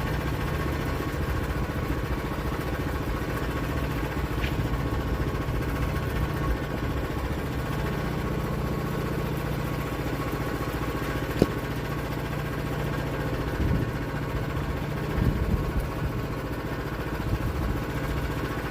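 Engine idling steadily, with one sharp click about eleven seconds in and a few dull knocks after it.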